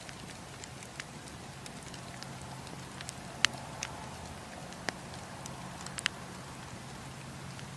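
Wood campfire crackling: a steady hiss and low rumble of flame with scattered sharp pops of burning wood, the loudest about three and a half, five and six seconds in.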